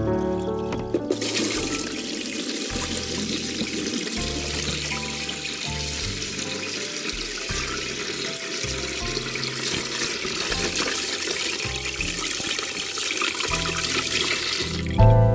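Water running in a steady gush, starting about a second in and stopping just before the end, over background music with a low bass line.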